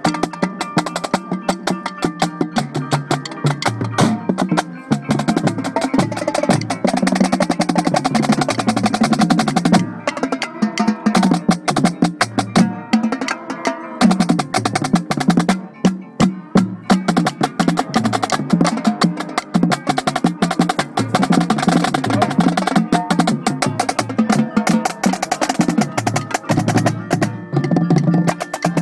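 Marching drumline playing: rapid snare drum strokes and rolls over pitched tenor and bass drum notes in a driving rhythm.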